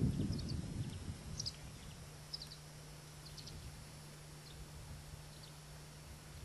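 Faint outdoor ambience: scattered short, high bird chirps over a low rumble that fades after about a second and a half, leaving a faint steady low hum.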